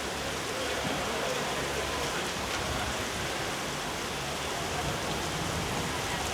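Steady rain, a constant even hiss of water that has been leaking into the rink.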